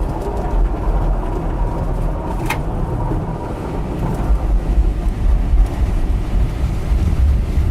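Glider rolling through its takeoff run under aerotow: a loud, steady low rumble and rushing noise inside the cockpit, with one sharp click about two and a half seconds in.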